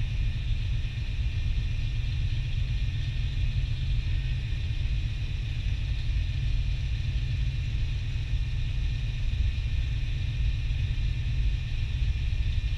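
Turbocharged 4.8-litre LS V8 idling steadily, heard from inside the car's cabin.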